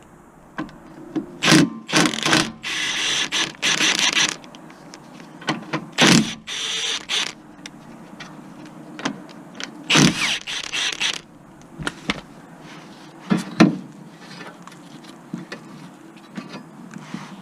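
Hand tools and metal parts being worked on a car: irregular clicks and knocks, with a few longer rasping bursts, the longest lasting about three seconds near the start.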